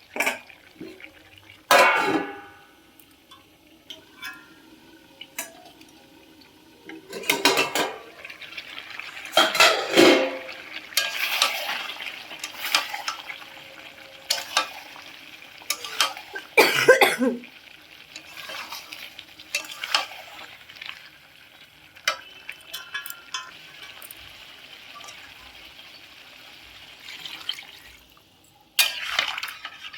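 A metal spatula stirring food in a cooking pan, scraping and knocking against the metal at irregular moments, with food hissing in the hot pan in between.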